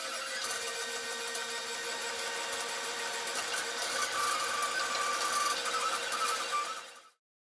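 3D printer running, its stepper motors giving a steady mechanical whine with a few held tones over a hiss; the sound cuts off abruptly about seven seconds in.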